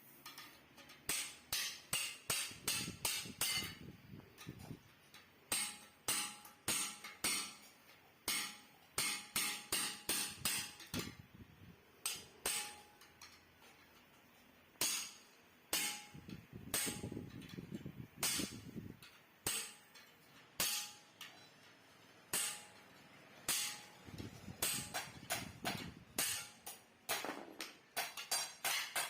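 Hammer blows on the metal of a Yamaha RX-King motorcycle exhaust muffler as it is being knocked open and reworked, several sharp strikes a second in runs with short pauses, the metal ringing briefly after many blows.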